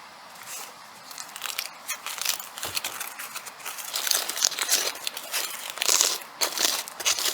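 Irregular crinkling and crumpling of something being handled, growing busier about four seconds in.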